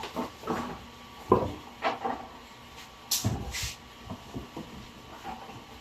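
Several knocks and thuds of household handling, like cupboard doors or drawers opening and closing, with two short hissy scrapes about three seconds in.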